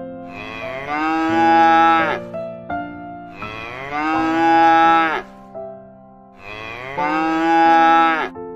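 A cow mooing three times, each long call dropping in pitch at its end, over a gentle background keyboard tune.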